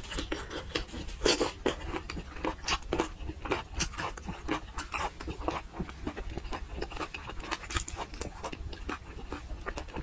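Close-miked wet chewing and lip-smacking of soft, fatty braised meat, a quick irregular run of sticky clicks and squelches.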